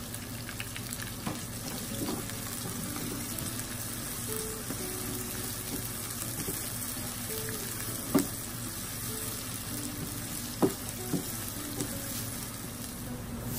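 Sliced onions and whole spices (star anise, cardamom, cinnamon, curry leaves) sizzling steadily in oil in a frying pan while being stirred with a wooden spatula. There are a few sharp knocks in the second half.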